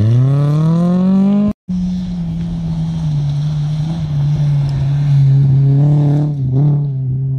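Rally car engine revving hard as the car accelerates, its pitch rising steadily; the sound cuts out for a moment about a second and a half in. Then a car engine is held at high revs, dipping briefly near the end before pulling on.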